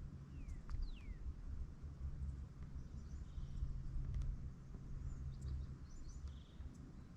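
Faint open-air ambience: a low rumble under two short falling bird whistles about half a second in, with scattered faint chirps.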